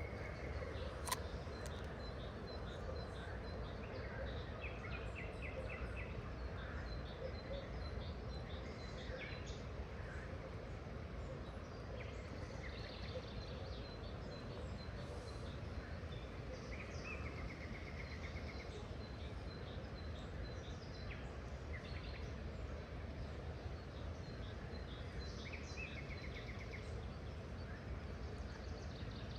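Small birds chirping on and off, with a short rapid trill that comes three times, over a steady low rush of outdoor background noise. A single sharp click comes about a second in.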